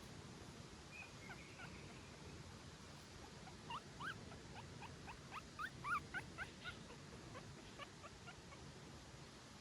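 Newborn puppy whimpering in short, high-pitched, rising squeaks, thickest in the middle of the stretch, over a faint steady hiss.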